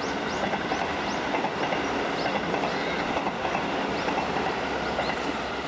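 Electric commuter train running on the rails: a steady, loud rumble of wheels and motors with a quick, regular run of high clicks on top.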